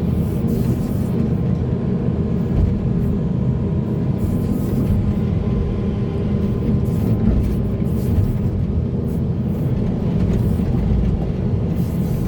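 Heavy diesel earthmoving machinery running steadily under load, with scattered clatter and scraping over a constant low engine drone.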